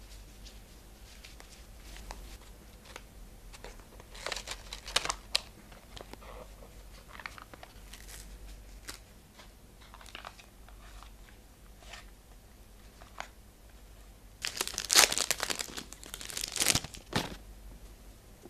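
Packaging crinkling and rustling as memo note pads are unboxed by hand, with scattered crackles and two louder bursts of handling, the second near the end the loudest.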